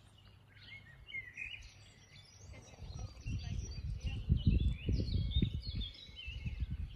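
Wild birds chirping and singing in the trees, many short calls. Low rumbling thumps come in between about three and six seconds in and are the loudest sound.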